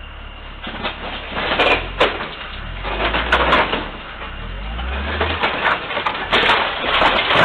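Car crash: a run of crunching, clattering impacts over vehicle rumble, starting about a second in, with sharp knocks in the first few seconds and a louder, rougher stretch near the end.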